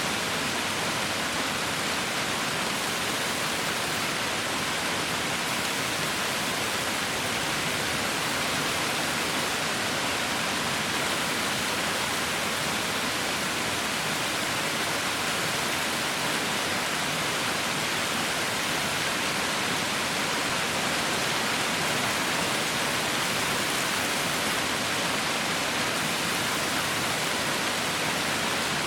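Heavy rain falling steadily, an even hiss of countless drops with no pauses or distinct impacts.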